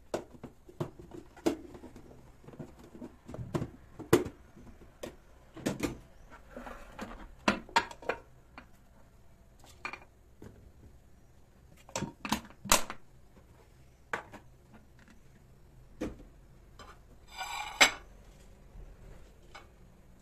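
Irregular sharp clicks and knocks of hard objects, some coming in quick clusters, with a short rattle near the end.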